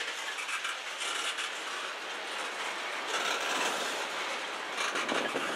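Procor covered hopper cars of a freight train rolling past, a steady noise of steel wheels on rail with irregular clatter.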